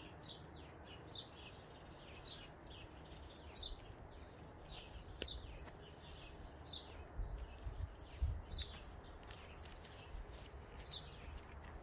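Small bird chirping, a short falling note repeated about once a second. A couple of low thuds come about seven and eight seconds in.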